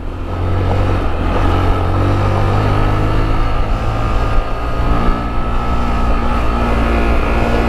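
Motorcycle engine running at a fairly steady speed while riding off-road, over a steady rush of wind and road noise.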